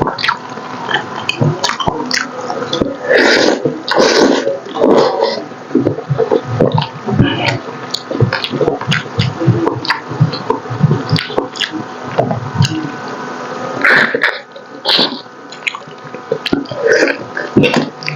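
Close-miked wet chewing and lip-smacking of a person eating braised pork hock (paksiw na pata): irregular short clicks and smacks, louder about three seconds in and again around fourteen seconds.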